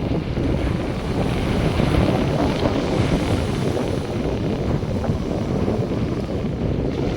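Wind gusting across the microphone over the steady wash of North Sea surf.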